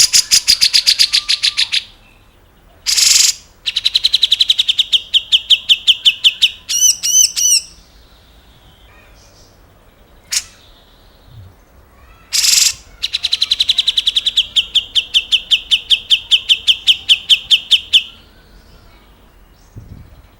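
Cucak jenggot (grey-cheeked bulbul) singing in phrases: harsh, rasping bursts and long, fast trills of repeated notes, with a short run of arched whistled notes, separated by pauses of a second or two.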